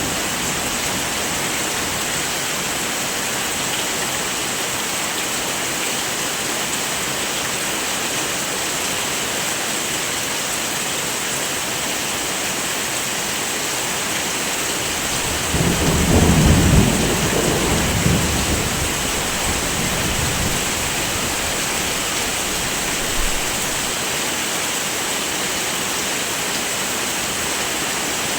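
Steady heavy rain as an even hiss, with a low rumble of thunder about halfway through that swells and fades over a few seconds.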